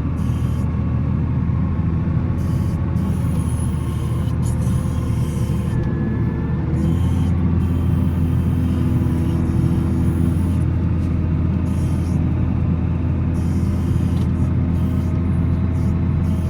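Volvo L70C wheel loader's diesel engine running steadily under load while plowing snow, its note stepping up and getting a little louder about seven seconds in.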